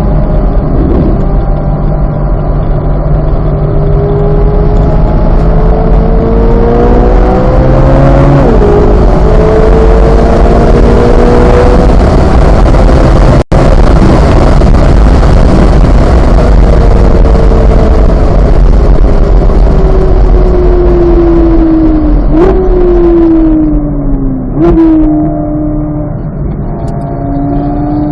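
2023 Chevrolet Corvette Z06's flat-plane-crank V8 being driven hard on track: it accelerates through the gears with an upshift about eight seconds in, then falls away under a long stretch of braking, gives two quick throttle blips on downshifts near the end, and pulls hard again. Heavy road and wind noise runs under the engine.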